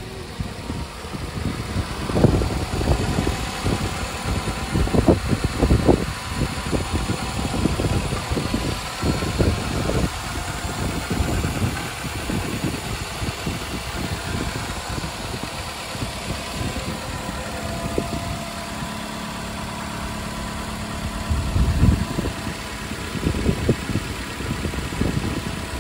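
Chrysler 2.4L Dual VVT inline-four engine idling steadily in a 2014 Dodge Journey. It is a running engine offered for sale. A gusty low rumble lies over it from about two to ten seconds in and again near the end.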